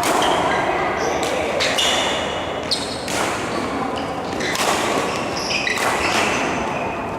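Badminton rally: sharp racket hits on the shuttlecock every second or so, mixed with short high squeaks of court shoes on the hall floor, over the echoing hum of a busy sports hall.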